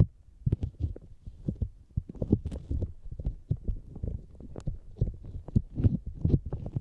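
Fingertips tapping on the outer ear of a binaural microphone: quick, irregular low thumps, several a second.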